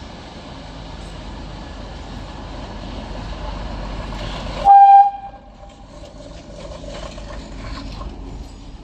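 TEP70BS diesel locomotive running past with a steady engine rumble that grows louder, then one short, loud horn blast about halfway through, followed by quieter rumble and clatter.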